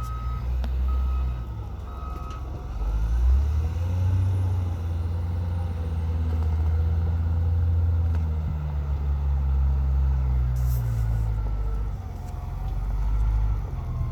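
Large vehicle's engine running with a deep rumble whose pitch rises and falls slowly. A reversing alarm beeps at a single pitch about once a second for the first couple of seconds, then stops while the engine keeps running.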